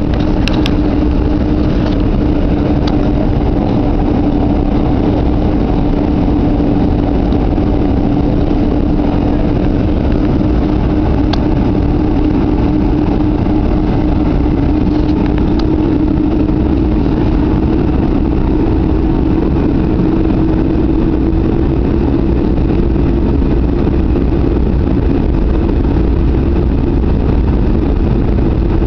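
Boeing 747 jet engines running with a steady, loud rumble and a humming tone that creeps slightly higher in pitch.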